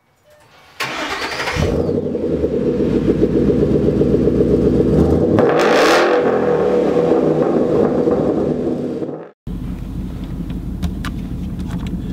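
Car engine running and revving, opened by a whoosh and swept by a second, louder whoosh around the middle. It cuts off about nine seconds in, giving way to the steady low rumble of a car's cabin on the move, with a few light clicks.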